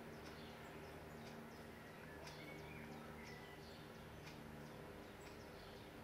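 Faint, thin bird chirps, short and falling in pitch, two or three a second, over a low steady hum.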